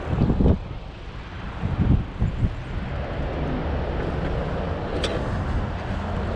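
Wind buffeting the microphone of a moving e-bike, over steady low road and traffic rumble, with a few stronger gusts in the first two and a half seconds and a brief click about five seconds in.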